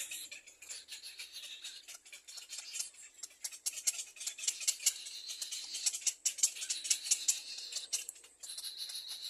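Nestlings in the nest giving rapid, high-pitched begging chirps with quick clicking, as at feeding time.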